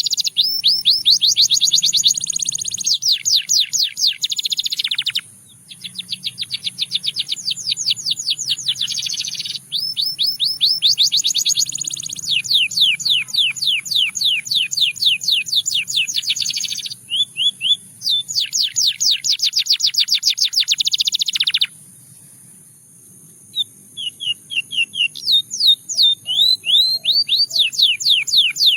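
Canary singing long rolling trills, each a fast run of repeated high notes lasting several seconds, with brief pauses between phrases and a longer break past the middle before the song resumes in shorter, broken phrases.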